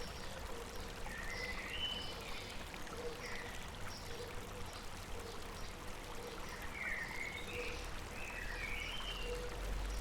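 River water running steadily over rocks, with small birds chirping over it in short high calls scattered through. A faint low note also repeats about once a second.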